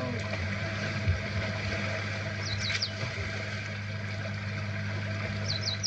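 Steady low drone of an idling vehicle engine, with a few quick, falling bird chirps about two and a half seconds in and again near the end.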